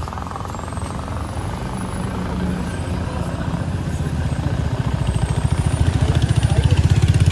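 A heavy road vehicle's engine running close by, a low rumble that becomes louder and evenly pulsing in the second half.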